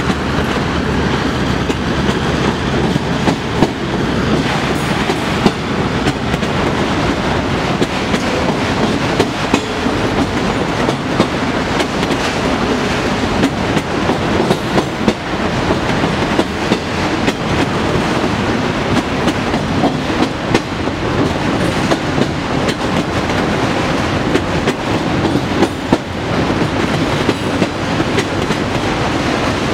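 Freight train of autorack cars rolling past, steel wheels clacking and banging over rail joints with the cars rattling. In the first several seconds a low, steady diesel hum from the GP38 switching locomotive is heard, fading as it pulls away.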